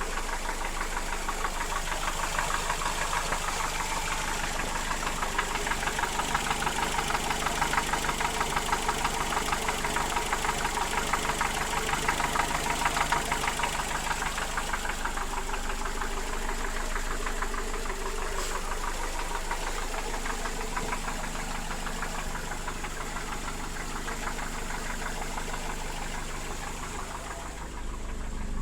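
Mercedes-Benz M102 inline-four petrol engine running with a fast, regular knock, a little louder through the middle. The knock comes from internal wear that the owner puts down to worn connecting-rod bearings, small-end bushings, pistons, pins and rings.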